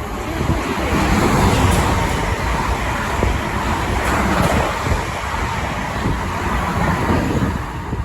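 A train running past on the line, a loud steady rush of wheel and air noise that builds in the first second, with wind buffeting the microphone.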